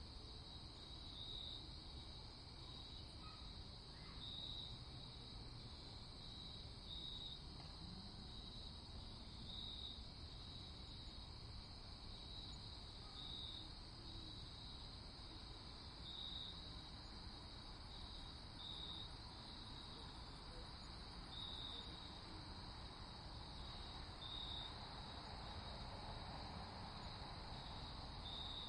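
Crickets chirping: a continuous high trill with louder chirps every second or two, over a faint low hiss.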